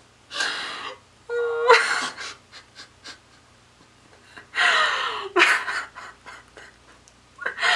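A woman laughing in three breathy, gasping bursts, with little voice.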